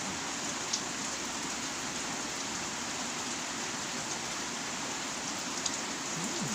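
Heavy rain falling steadily, a dense even hiss, with a couple of sharp drip or tap clicks.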